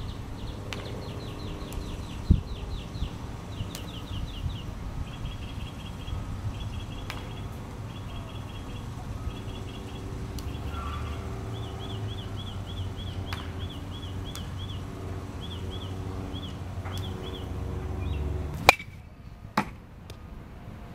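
A bird singing: short runs of quick repeated chirps, the phrase changing every second or two, over a low steady rumble. A few sharp knocks stand out, the loudest near the end.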